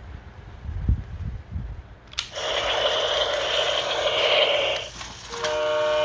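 Fisher-Price GeoTrax Pacific Chief toy train engine playing its electronic sound effects: a click about two seconds in, then a steady hiss for about two and a half seconds, then a train horn of several held tones starting near the end. Low handling thumps come before the click.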